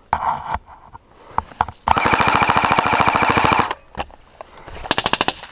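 Airsoft gun firing full-auto: one rapid burst of nearly two seconds, then a second short burst of about eight shots near the end.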